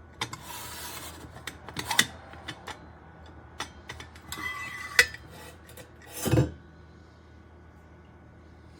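Metal parts of a stainless steel French press plunger and filter being handled and twisted together: sharp clinks and scraping rubs, with a duller knock about six seconds in.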